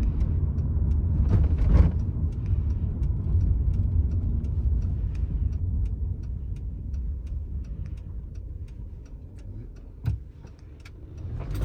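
Car interior rumble from the engine and tyres while driving, with a steady ticking of about three clicks a second, like a turn-signal indicator. The rumble fades as the car slows near the end, with a short knock about ten seconds in.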